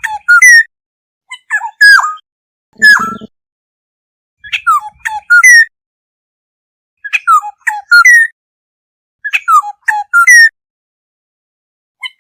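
Black-hooded oriole calling: short phrases of fluty, downward-sliding whistled notes, repeated about every two seconds. One rougher, lower call comes about three seconds in.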